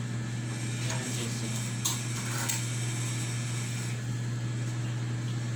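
Steady low machine hum, with two brief clicks about two seconds in.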